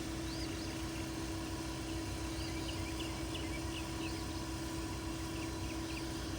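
Steady hum of a motor or engine running, with small birds chirping repeatedly in the background.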